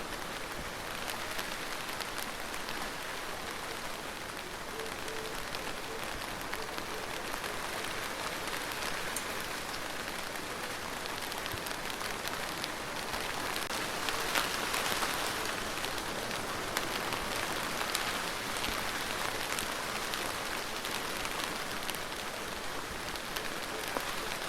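Steady rain falling on a surface, a dense hiss with many individual drop taps. It swells a little heavier about halfway through.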